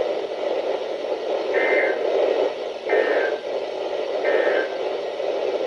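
Weather radio receiver static, a steady hiss, broken three times by short warbling data bursts of the SAME alert header code, each about half a second long and a little over a second apart.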